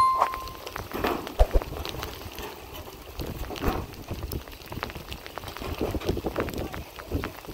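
Rain falling and pattering, with many irregular drip-like clicks and a few dull knocks. A short high beep fades out right at the start.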